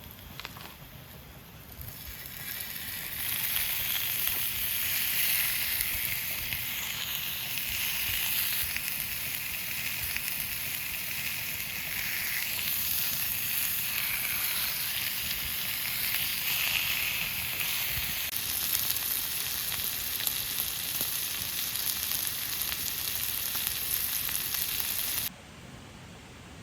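Batter sizzling as it cooks over a campfire: a steady frying hiss that swells about two seconds in and cuts off abruptly near the end.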